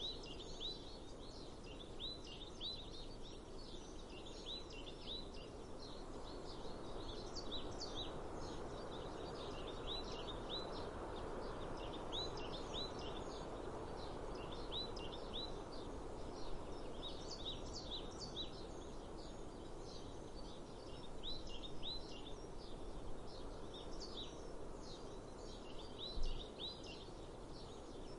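Small birds chirping in quick runs of short, repeated notes, with pauses between the runs, over a steady outdoor rush of breeze. There is one soft low thump near the end.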